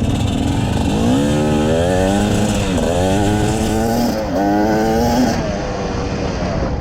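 Motorcycle engine accelerating through the gears: its note climbs, drops sharply at two gear changes about a second apart, climbs again, then eases off.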